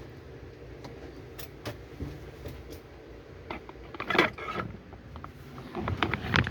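Scattered clicks and knocks of hand work on water-heater pipe fittings, with a louder, longer noise about four seconds in and a cluster of knocks near the end.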